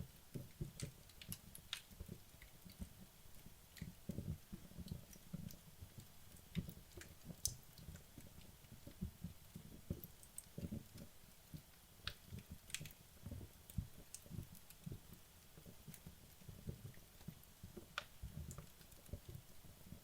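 Wood fire burning in a fireplace: a low soft flutter of flames with irregular sharp pops and crackles from the logs, a few louder snaps standing out.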